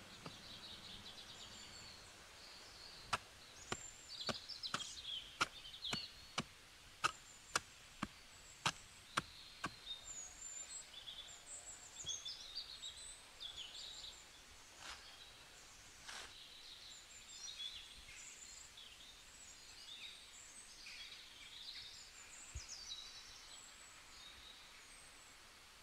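A run of about fifteen sharp strikes of a tool on wood, roughly two a second, stopping about ten seconds in, with birds chirping at high pitch throughout.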